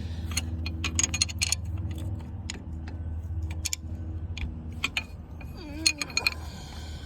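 Scattered metallic clicks and clinks of a wrench against a bolt head and the surrounding metal while it is worked onto a starter mounting nut, over a steady low hum.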